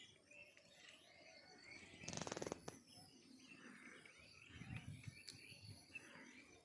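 Faint rural outdoor ambience with small birds chirping and calling on and off. A brief rattle of rapid clicks is the loudest sound, about two seconds in.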